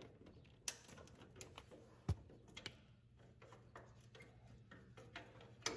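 Scattered light clicks and metallic taps of hand tools and parts being handled while a bolt is worked on, with a sharper knock about two seconds in and another near the end, over a faint steady hum.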